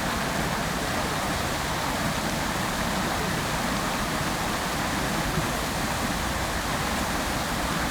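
Fountain water jets falling and splashing into the basin: a steady, even rushing of water.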